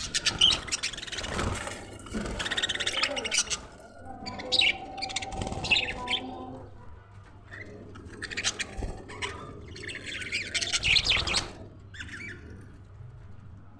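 Budgerigars chirping and chattering as a group, in repeated bursts with short pauses, over a faint steady low hum.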